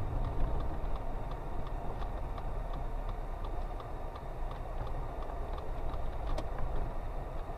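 Low, steady rumble of a car's engine and road noise heard from inside the cabin, with a turn-signal relay ticking evenly at about two clicks a second.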